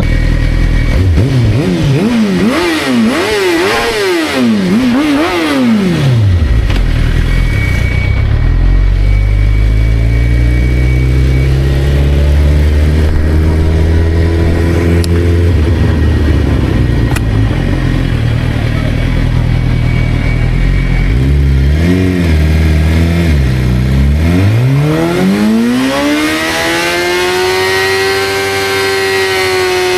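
Motorcycle engine revved in several quick blips, then running low and steady. Near the end it accelerates with a long rising pitch and settles at a higher steady speed.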